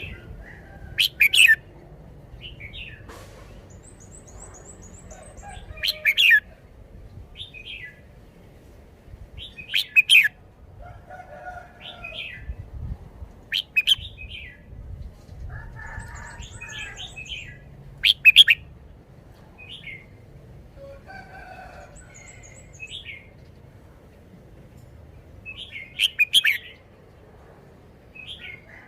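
Red-whiskered bulbul singing short, loud phrases repeated every few seconds, with softer chirps in between.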